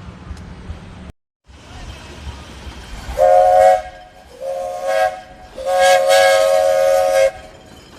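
Train whistle sounding a chord of several notes in three blasts: two short ones, the second weaker, then a long one.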